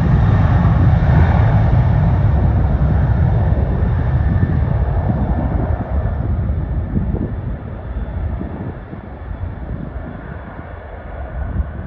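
Jet airliner engines, loud and rumbling, fading steadily as the aircraft moves away, with the higher part of the sound dying out first.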